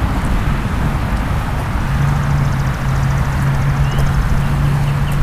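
Swollen floodwater of a creek rushing fast, a steady noisy rush with a deep rumble underneath.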